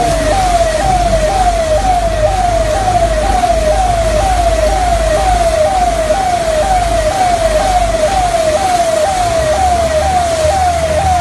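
Electronic siren sounding in a fast repeating pattern of falling sweeps, about two to three a second, over a steady hiss and a low rumble.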